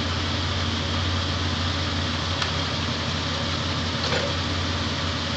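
Car engine idling steadily with an even low hum, and a couple of faint clicks.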